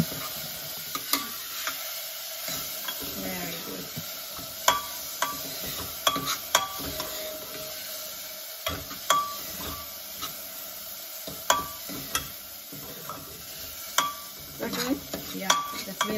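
Metal spoon stirring soaked red lentils as they sizzle in hot ghee in a small pressure-cooker pot, with irregular sharp clinks of the spoon against the pot.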